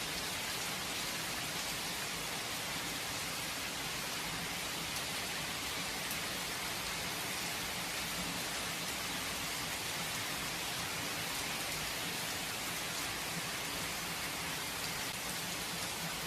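Steady rain falling, an even hiss of many drops without thunder.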